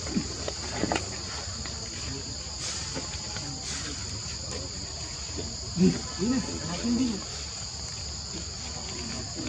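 Insects droning in a steady high-pitched chorus, holding two even pitches without a break, with a few short low calls or voices about six to seven seconds in.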